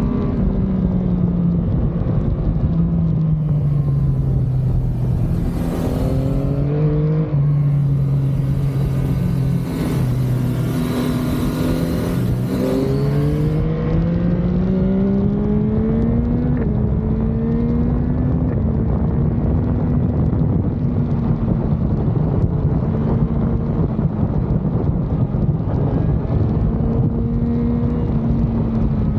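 Motorcycle engine under way, heard from the bike: the revs climb and drop back through several gear changes in the first half, then hold at a steady cruise with small rises and falls. A high rushing hiss rides over it from about three to thirteen seconds in.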